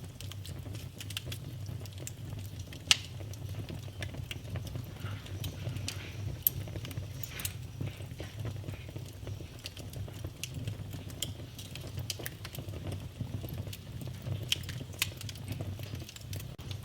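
Wood fire burning in a fireplace: irregular crackling and popping over a steady low rumble of the flames. A few pops stand out, the sharpest about three seconds in.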